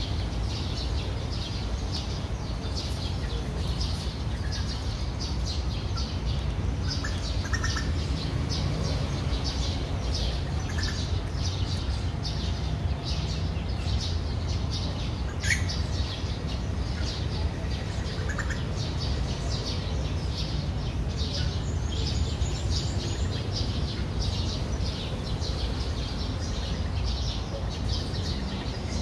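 Birds chirping in short, repeated high calls over a steady low rumble, with one sharper rising call about halfway through.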